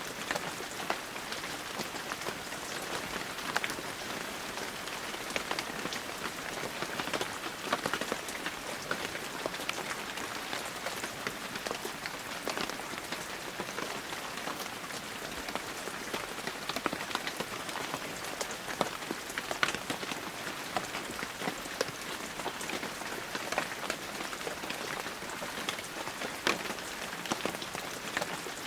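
Steady heavy rain falling, with a dense hiss of rainfall and many individual drops striking close by.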